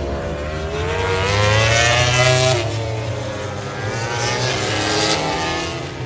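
MotoGP race motorcycles passing by at high revs, the engine note rising and then falling as each goes past. The loudest pass comes about two seconds in, and a second one about five seconds in.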